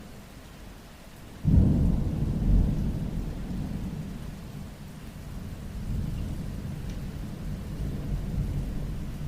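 Steady rain, with a sudden deep rumble of thunder about a second and a half in that rolls on, fades and swells again later.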